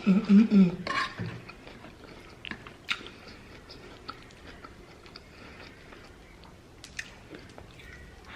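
Close-miked chewing of creamy pasta, chicken and salad: wet mouth sounds with scattered small clicks and a few sharp ticks. A short hummed voice sound comes at the very start.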